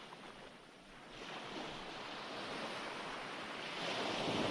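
Recorded ocean waves washing on a shore: a steady surf hiss that ebbs about a second in, then swells again as the next wave comes in, louder near the end.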